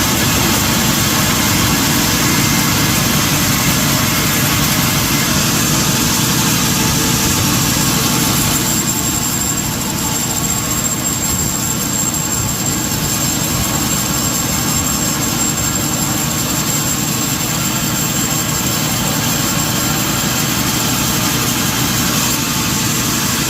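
Sawmill machinery running steadily: a loud, constant mechanical drone with a thin high whine over it. About nine seconds in, the sound drops slightly and the whine turns sharper.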